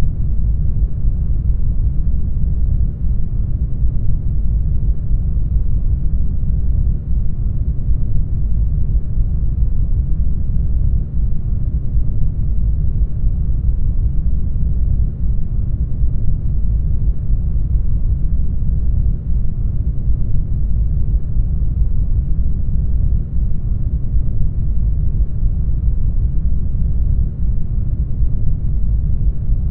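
Brown noise: a steady, deep rumbling hiss, strongest in the lows and thinning toward the highs, with no change throughout.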